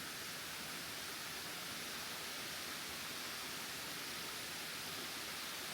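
Steady, even rushing noise with no changes, strongest in the upper range.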